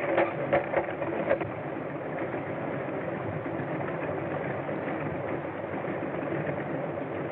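Light aircraft engine idling steadily, with a few sharp knocks in the first second and a half.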